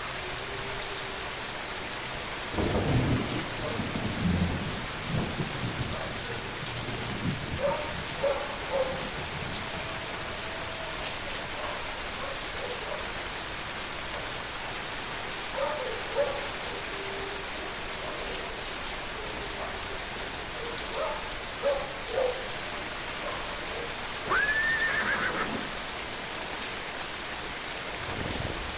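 Steady rain falling, with a low rumble a few seconds in, scattered short knocks, and one short high call that rises and falls in pitch near the end.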